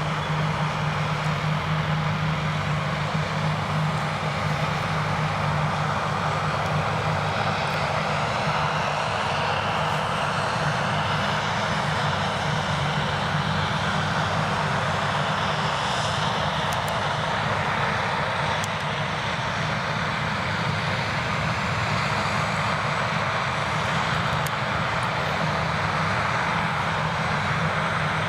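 Krone Big X 1100 self-propelled forage harvester working under full load, chopping standing triticale. Its Liebherr V12 diesel and chopping gear make a steady, heavy drone.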